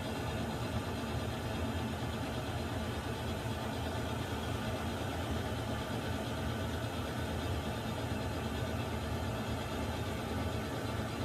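Water heater running: a steady low rumble with an even hiss over it, unchanging throughout.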